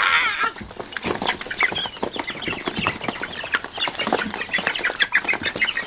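A flock of Cornish Rock Cross meat chickens feeding, with many rapid clicks of beaks pecking at feed and short peeps and clucks throughout. A warbling call trails off about half a second in.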